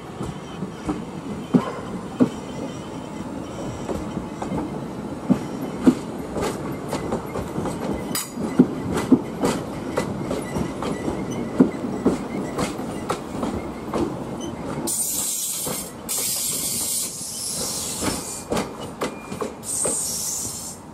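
Skånetrafiken Pågatåg X61 electric multiple unit running through the station, its wheels clicking and clunking irregularly over the rail joints and points. About fifteen seconds in, a loud high-pitched wheel squeal comes in twice.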